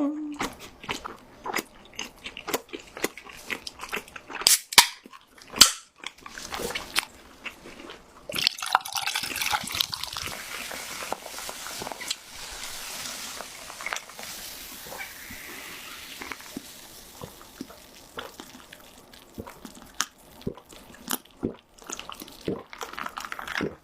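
Close-miked eating of fried cheese balls with garlic sauce: crisp crunchy bites and wet chewing. Scattered sharp crunches in the first several seconds give way to a denser stretch of chewing about a third of the way in, then scattered crunches again.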